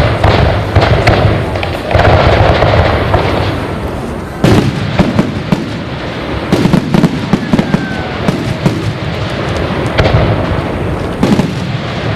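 Aerial fireworks display: shells bursting with loud booms, the strongest at the start, about two seconds in, around four and a half seconds, and twice near the end, with dense crackling and popping in between.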